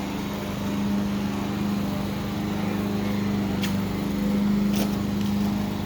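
An engine running steadily, a constant even hum with no change in speed.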